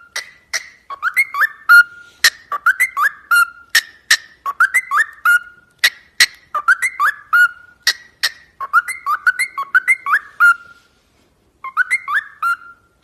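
Parrot whistling the same short phrase of gliding notes over and over, about once a second, with sharp clicks between the phrases and a pause of about a second near the end.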